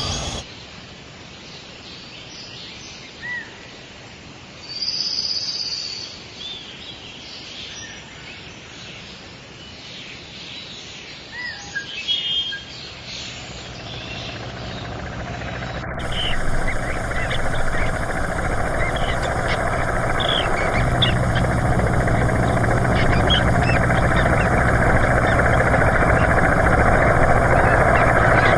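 Small songbirds giving short, scattered chirps. About halfway through, a broad rushing noise swells up and keeps getting louder to the end, with the chirps continuing over it.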